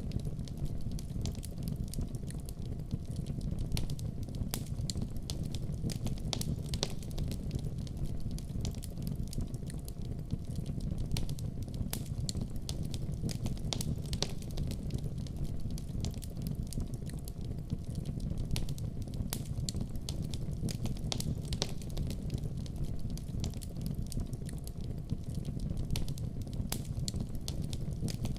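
Fireplace fire crackling: many sharp pops and snaps at irregular intervals over the steady low rumble of the flames.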